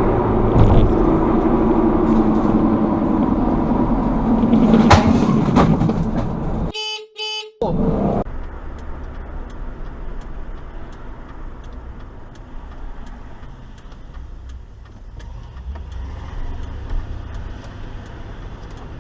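Vehicle road noise with a car horn honking. The first six seconds are louder; about seven seconds in a short horn note sounds, then steadier, quieter road noise follows.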